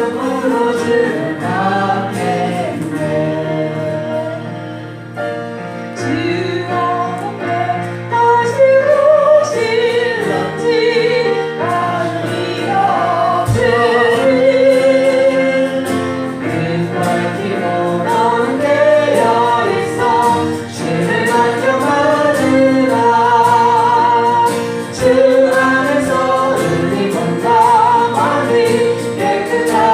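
A congregation singing a Korean gospel hymn together, with instrumental accompaniment.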